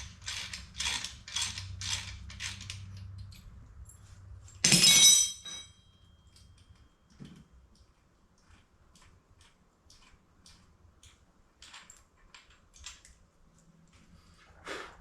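Ratchet wrench clicking in even strokes, about two a second, then stopping about three and a half seconds in. A loud metal clank with a brief ring follows, then only faint scattered ticks.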